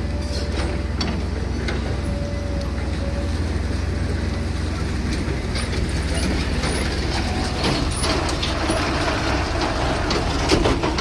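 Heavy diesel vehicles or machinery running steadily with a low rumble, with scattered metallic clicks and knocks over it.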